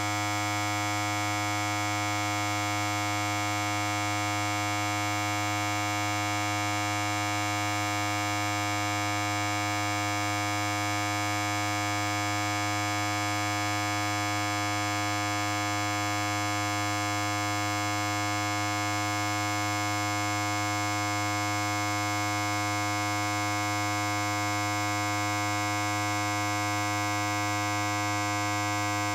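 Electric hair clipper running without pause: a steady, even buzz that does not change.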